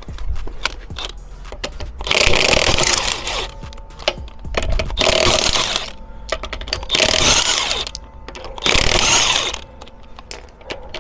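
A power wrench, most likely a cordless impact wrench, runs in five short bursts of about a second each, spinning off the wheel bolts one after another.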